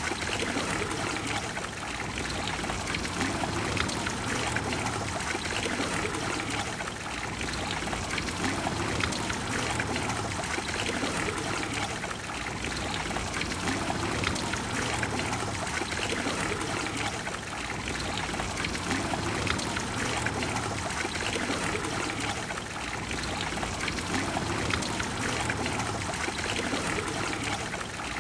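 The Trevi Fountain's water pouring and splashing steadily into its basin, a continuous rushing that swells and eases slightly every few seconds.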